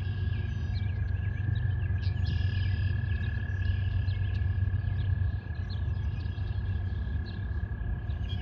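Pond ambience: frogs and birds calling in many short chirps over a steady low rumble, with a thin, constant high tone.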